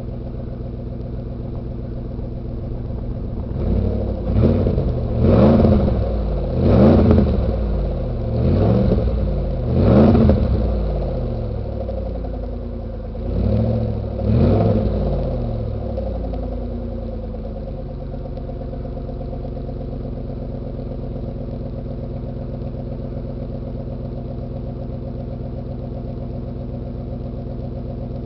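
1999 Ford Taurus SHO's Yamaha-built V8, on an exhaust with no mufflers, idling cold. Between about 4 and 15 seconds in it is revved in about seven quick blips, then settles back to a steady idle.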